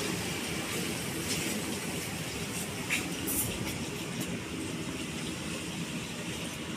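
Koleje Mazowieckie electric multiple unit rolling along the station platform: a steady rumble of wheels on the rails, with a few brief high squeaks about three seconds in.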